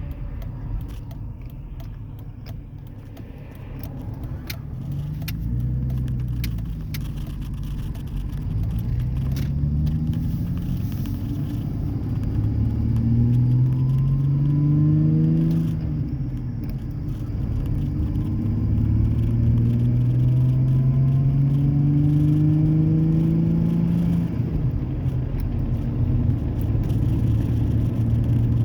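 2003 Ford Ranger's 4.0L SOHC V6 with the muffler deleted and the catalytic converters left on, heard from inside the cab under acceleration. The engine note climbs in pitch and drops back at each upshift, several times over, then holds steady at cruise near the end.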